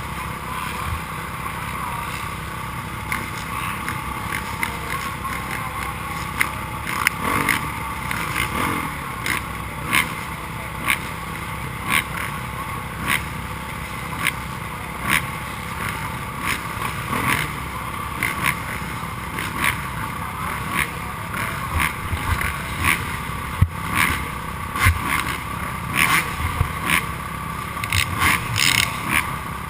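Motocross dirt bikes racing, their engines making a steady drone that rises and falls as they rev, with frequent short sharp knocks about once or twice a second.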